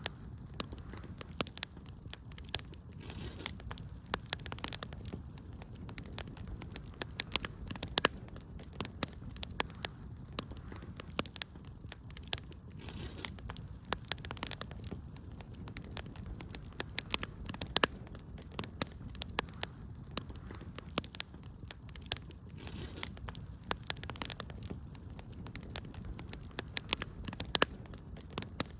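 Fireplace fire crackling: a dense, irregular stream of sharp pops and snaps over a steady low background of the burning.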